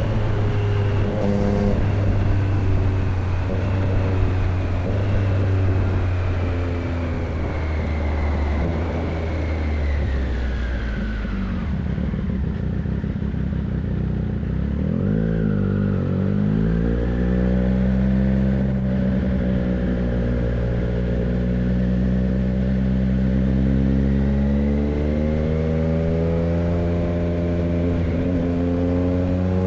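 Triumph Street Triple 765 RX's three-cylinder engine through an SC Project S1 exhaust, heard from the rider's seat. The note falls for several seconds as the bike slows, then climbs again as it accelerates back up to speed.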